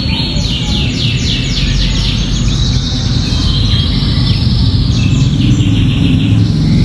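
Domestic canary singing runs of quick, repeated high trill notes, a song filled with learned ciblek (bar-winged prinia) phrases, over a steady low background rumble.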